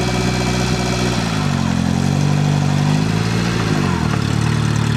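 Suzuki Samurai engine pulling under load as it crawls over concrete pipes, the revs rising about a second and a half in, holding, then falling back near the end.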